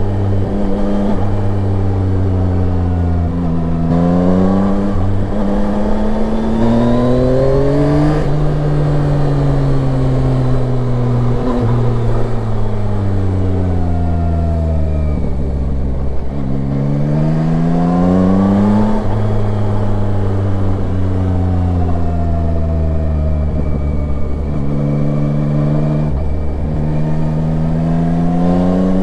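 Yamaha Tracer 9's 890 cc inline-three engine running under a rider, its pitch rising and falling again and again as the bike accelerates and eases off.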